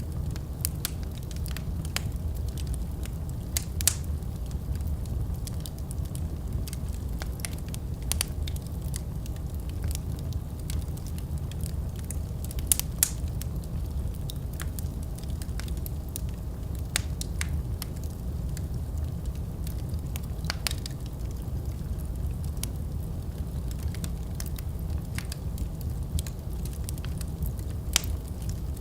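Wood fire burning in a fireplace: a steady low rumble of the flames with frequent sharp crackles and pops, a few louder snaps standing out.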